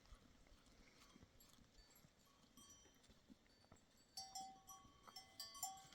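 Near silence, then from about four seconds in, faint clinking of livestock bells ringing on and off at a few clear pitches.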